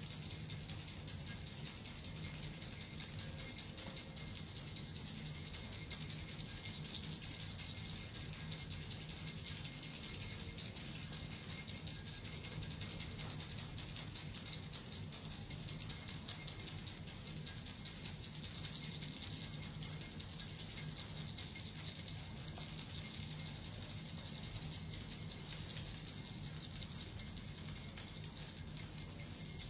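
Small jingling bells (suzu) shaken continuously, a steady high shimmering jingle without pause.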